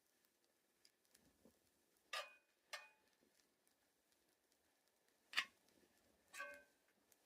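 A few short, sharp clicks, four in all and irregularly spaced, over near silence.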